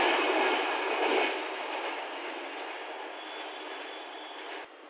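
Indian Railways passenger train's coaches running past on the track, the wheel-and-rail noise dying away as the last coach goes by, with a sudden drop near the end.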